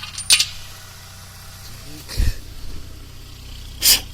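The homemade all-terrain vehicle's engine idling steadily, with a sharp click about a third of a second in and a short hiss near the end.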